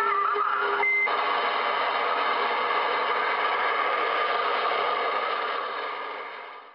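CB radio speaker: the end of an incoming voice transmission over a steady whistle, cut off by a short high beep about a second in, then steady static hiss from the receiver that fades out near the end.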